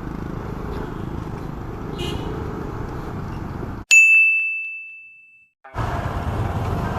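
Steady rumble of wind and road noise while riding a motorcycle. About four seconds in, the rumble cuts out for a single bright bell-like ding that rings out and fades over under two seconds, an edited-in sound effect. The riding noise then comes back.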